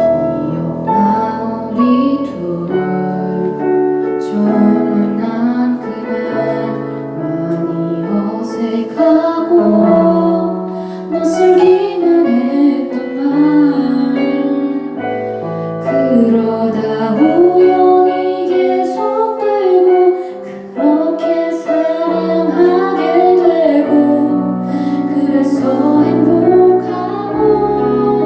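A woman singing a slow ballad live, accompanied by piano.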